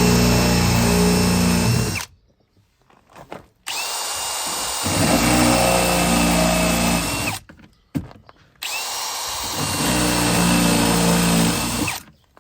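Electric drill with an 8 mm bit drilling out the rivets that hold a car door speaker. It runs three times for a few seconds each, with short pauses between, and its whine rises as it spins up and drops as it stops.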